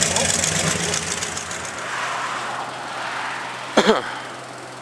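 4x4 mud truck engine running, its sound fading away over a few seconds. A brief loud sound cuts in about four seconds in, and a steady low hum remains.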